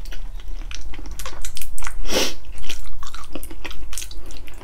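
A person chewing braised pork feet with the mouth close to the microphone: a run of wet smacks and clicks, with one louder, longer wet sound about two seconds in.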